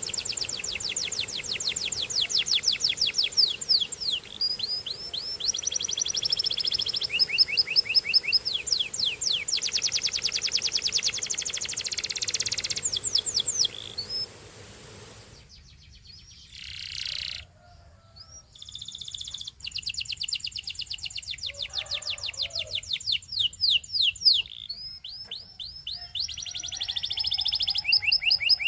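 Canary singing: long, fast trills of rapidly repeated notes that change from one tour to the next. The song breaks off about halfway through for a few seconds, then picks up again.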